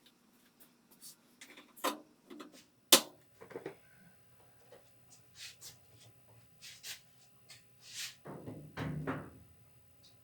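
Scattered clicks and knocks of parts and tools being handled, with one sharp click about three seconds in and a scraping rub near the end.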